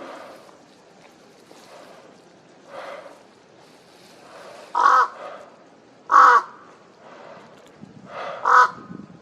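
Crow cawing: a fainter caw about three seconds in, then three loud single caws in the second half, a second or two apart.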